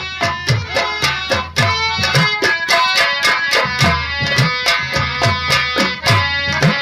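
Nautanki nagma instrumental: fast, dense hand-drum strokes with deep bass tones that bend in pitch, over a sustained melody line.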